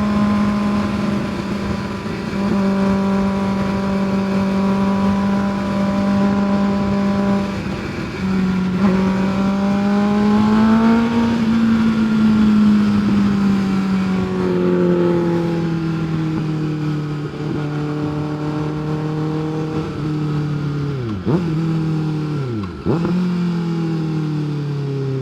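Kawasaki ZX-6R 636 inline-four sportbike engine running under way at steady revs. Its pitch falls gradually through the second half, with two quick drops and recoveries near the end.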